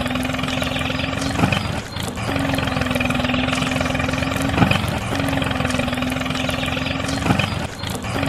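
Mini tractor engine running steadily with a constant hum. Sharp knocks come about every three seconds, and the hum dips briefly twice.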